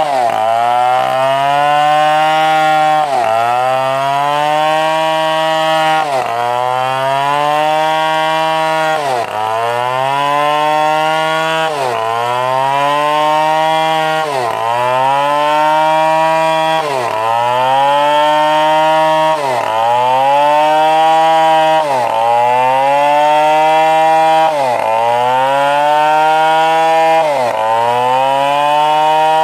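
Stihl 070 two-stroke chainsaw running hard. Its engine pitch drops sharply and climbs back about every three seconds, bogging under load as the chain bites into the wood and then recovering.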